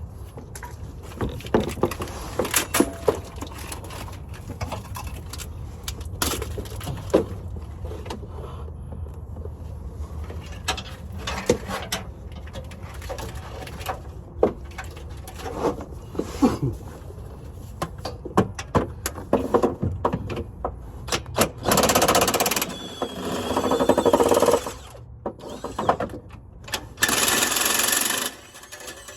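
Scattered metallic clinks and knocks of tools working on a vehicle, then three loud bursts of a fast mechanical rattle in the last third, like a power tool or ratchet spinning fasteners.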